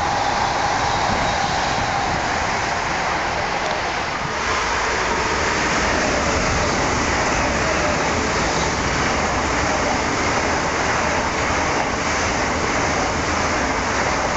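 Continuous rushing noise of a CRH high-speed electric train passing at speed, wheels on rail and air rush mixed. The noise dips briefly and changes tone about four seconds in.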